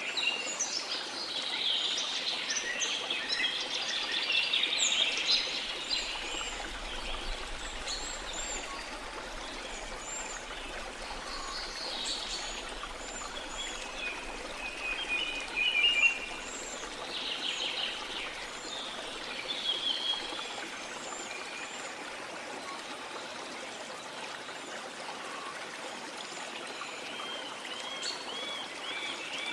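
A steady wash of sea water under a chorus of small birds chirping and trilling, busiest in the first few seconds, with one brief louder burst about halfway through.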